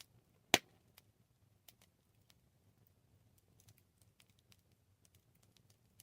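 Wood campfire crackling: scattered small pops and ticks over a faint low rumble, with one loud sharp crack about half a second in.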